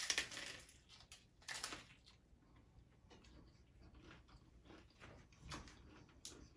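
Biting into a crunchy hard taco shell: a sharp crunch right at the start and another about a second and a half in, then quieter chewing with small crackles of the shell toward the end.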